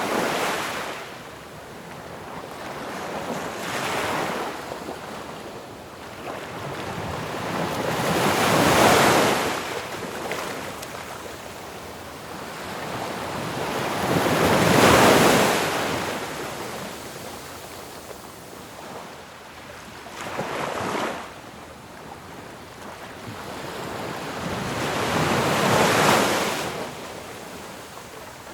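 Ocean waves crashing one after another, each swelling into a loud rushing hiss and then washing away. The three biggest break about a third of the way in, halfway, and near the end, with smaller waves between.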